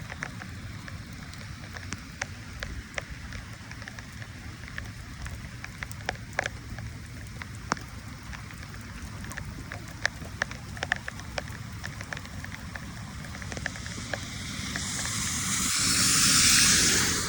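Steady rain, with scattered sharp ticks of drops hitting close by over a low steady rumble. Near the end a louder hiss swells over a few seconds, then drops away.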